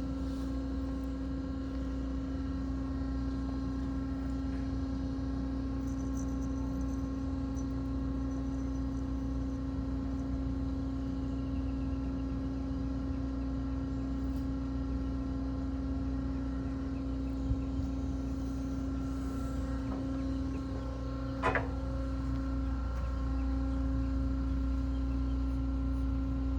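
Steady mechanical hum: a constant low drone held at one pitch with several overtones over a low rumble, broken once by a short sharp knock about 21 seconds in.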